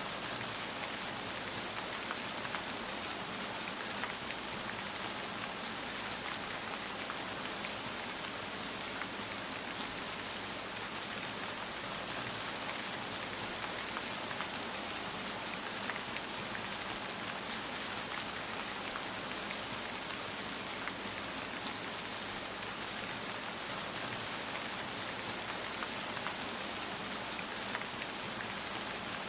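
Steady rain falling, a dense even hiss of drops with many small individual patters.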